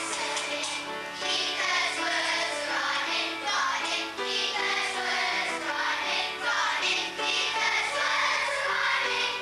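A group of children singing a song together over musical accompaniment, with held notes.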